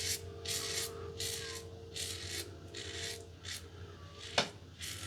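Safety razor (Razor Company Vanguard, mild plate, Rapira blade) scraping through lathered stubble in short repeated strokes, about two a second, with one sharp click near the end.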